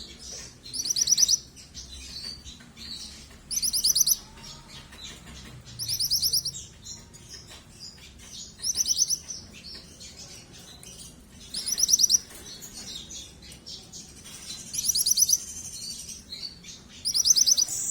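Young yellow 'mantenan' songbird calling over and over: short bursts of rapid, high-pitched chirps, each under a second long, repeated about every two and a half seconds.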